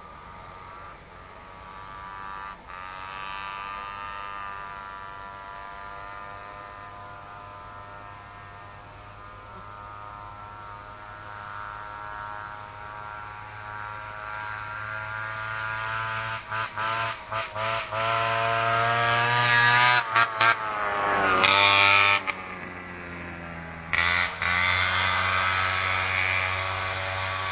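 Engine running with no exhaust fitted, a buzzy open note whose pitch wavers and climbs as it is revved, getting louder through the second half. The sound breaks off briefly several times near the end.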